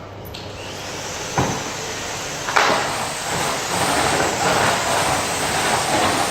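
Vacuum cleaner being switched on: a knock about a second and a half in, then the motor comes on with a sudden rush of air about two and a half seconds in and keeps running steadily.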